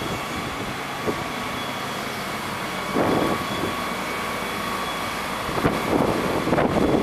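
Liebherr R932 tunnel excavator running: a steady machine noise with a faint high whine, and louder rough bursts about three seconds in and again near the end.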